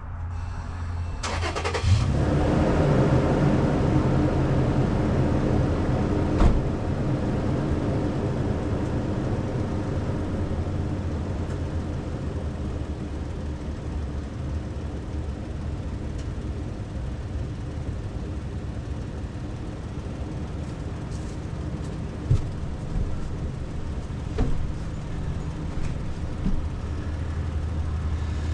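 Detroit Diesel 6-71 two-stroke inline-six diesel cranks briefly and fires about two seconds in, then keeps running steadily, loudest just after it catches and settling a little after that. There is a sharp knock about six seconds in and a few short clanks near the end.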